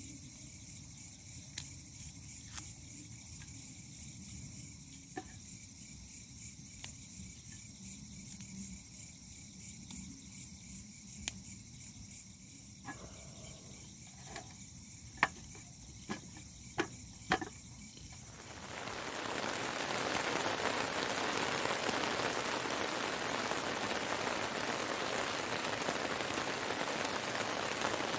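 Steady chorus of insects with scattered sharp ticks. About two-thirds of the way through, heavy rain sets in quickly and keeps falling as a steady, louder downpour.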